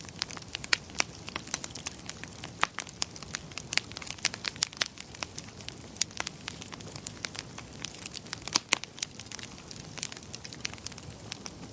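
Wood fire crackling in a fireplace: dense, irregular sharp pops and snaps over a low steady hiss of the flames.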